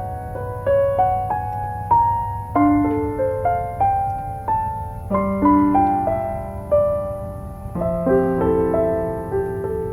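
Background solo piano music: single notes struck about once or twice a second, each ringing and fading, with deeper bass notes joining about halfway through. A steady low noise runs underneath.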